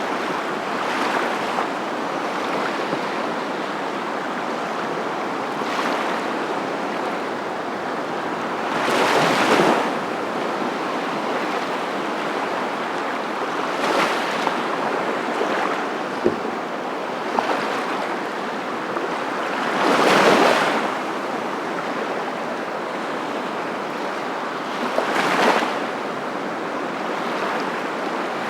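Ocean surf: a continuous rushing wash of water with louder swells of breaking waves every five or six seconds.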